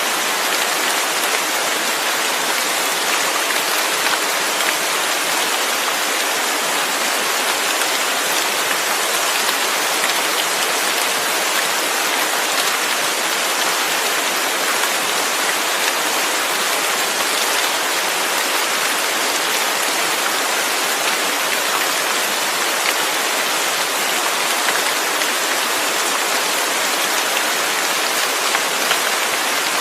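Steady rain falling, an even hiss of countless drops with no thunder and no breaks.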